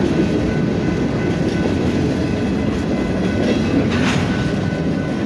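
Freight cars at the tail end of a long BNSF freight train rolling past fast, a steady rumble of steel wheels on rail with faint, thin high ringing tones running through it.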